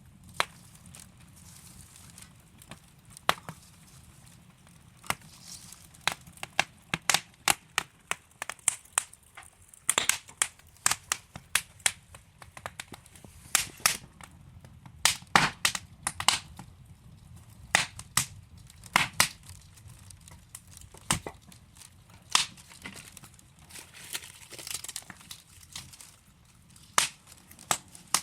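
Wood fire in a fireplace crackling: irregular sharp pops and snaps from burning logs, some single and some in quick clusters, over a faint steady hiss.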